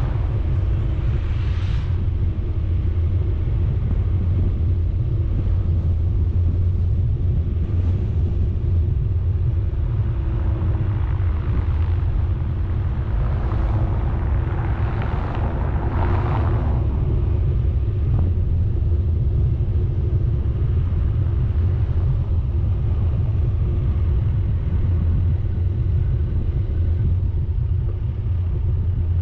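Vehicle driving on a road, a steady low rumble of engine and road noise. A louder hissing swell passes about halfway through.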